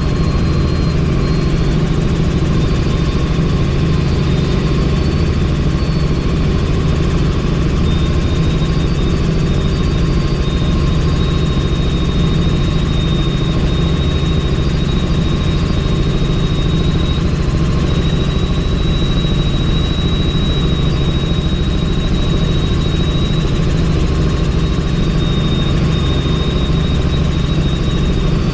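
Helicopter in flight heard from on board: a steady, loud drone of rotor and engine with a thin high whine over it, unchanging throughout.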